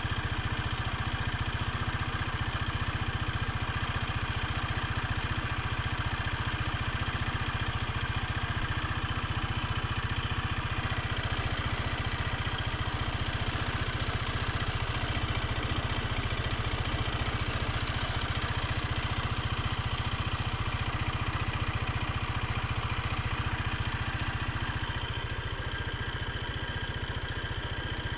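Geon Pantera motorcycle engine idling steadily with a strange metallic clanking. The owner says the clanking has grown louder over time and does not know its cause. The engine runs a little quieter near the end.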